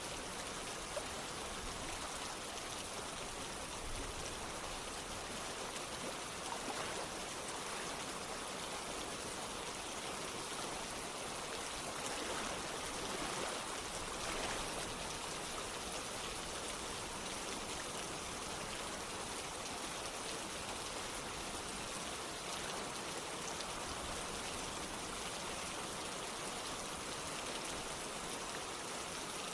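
Steady rain falling, with fine patter of drops over running water.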